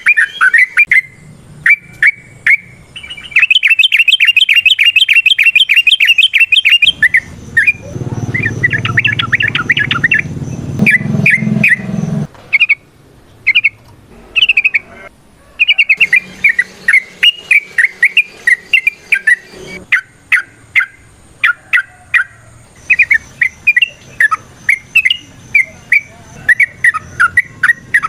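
Yellow-vented bulbul (trucukan) singing loudly in quick, bubbling chattering phrases, with a fast even trill of about ten notes a second a few seconds in. A low rumble sits under the song for several seconds near the middle.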